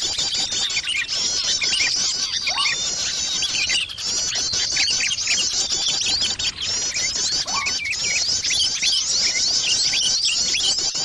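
Bird-luring call recording: a dense chorus of small birds chirping and twittering, with many high, quick, overlapping calls repeating without a break.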